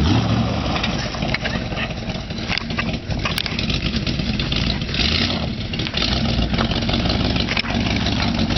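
1977 Corvette's V8 engine running steadily at low revs, a continuous low rumble.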